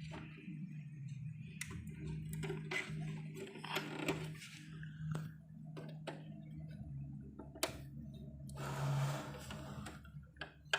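Scattered clicks and knocks of tools and parts being handled at a repair bench, over a steady low hum.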